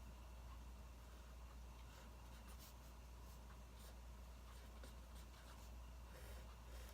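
Faint pen or pencil writing on paper: soft, scattered scratching strokes over a steady low hum.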